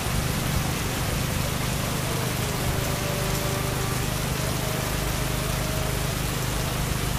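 Heavy rain pouring steadily, a dense even hiss with no thunderclap.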